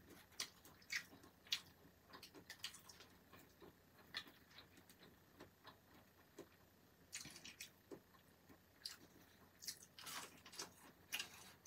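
Faint, scattered crunches and small clicks of someone chewing crispy batter-fried shrimp, with denser bouts of crunching about seven seconds in and again around ten seconds.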